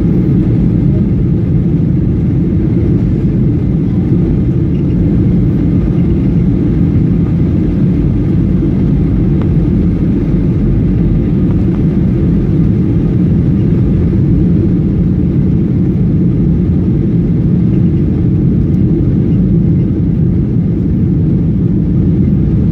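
Steady cabin noise inside a Boeing 737 in flight: the low, even rumble of the jet engines and airflow heard from a window seat in the rear cabin, with no change in pitch or level.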